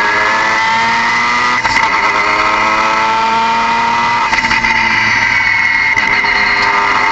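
Car engine running under load, its pitch slowly rising, with a strong high whine above it. Brief breaks near two seconds and four and a half seconds in interrupt the rise.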